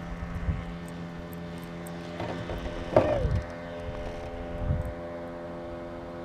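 A steady motor hum with an even pitch, with a few brief knocks and a short falling-pitch sound about three seconds in.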